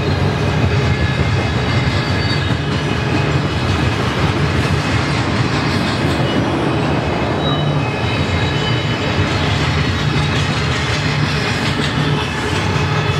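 Double-stack intermodal well cars rolling steadily past, a loud continuous rumble of steel wheels on rail, with a faint high whine running over it.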